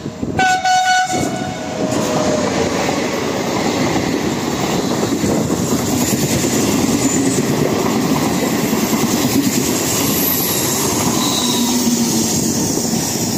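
An Italian electric passenger train with an E.464 locomotive gives a short horn blast as it arrives. It then passes through the station close by at speed, with a steady loud rumble and clatter of wheels on the rails.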